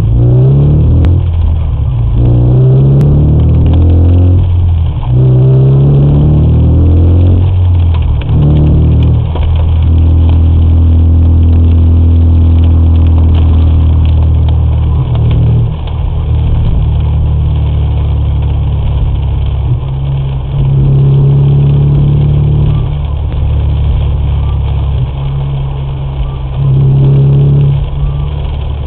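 Car engine heard from inside the cabin, accelerating from a standstill with its pitch rising in several steps as it shifts up through the gears, then running steadily at cruising speed with road noise.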